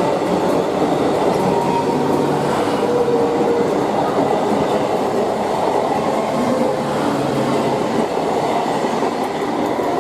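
Electric multiple unit local train running on the rails, a steady rumble of wheels and carriages with clickety-clack over the rail joints.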